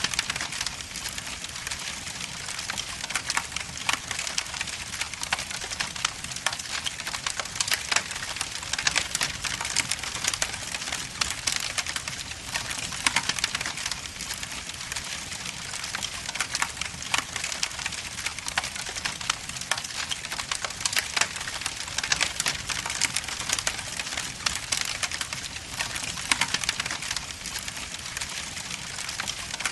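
Wood logs burning in a fireplace, crackling and popping in dense, irregular sharp snaps over a steady hiss.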